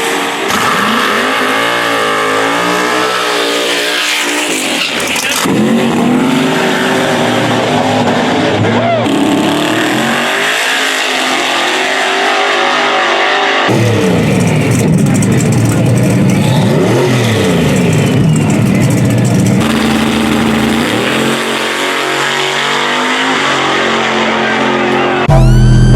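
No-prep drag racing cars at full throttle, engines revving and accelerating hard with the pitch sweeping up. The sound changes abruptly several times, as if from one run to the next, with a loud burst near the end.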